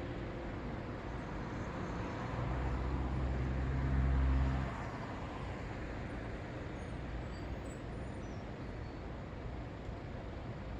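Steady city road traffic noise. A vehicle passes close about two seconds in, its low engine rumble growing louder until about four seconds, then quickly falling away into the traffic hiss.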